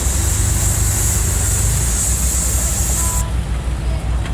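Car engine running with a steady low rumble and road or wind hiss; a high hiss cuts off suddenly about three seconds in.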